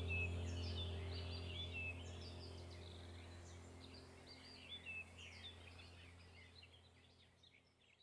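Many short, quick bird chirps and calls over a steady low hum, the whole sound fading out toward the end.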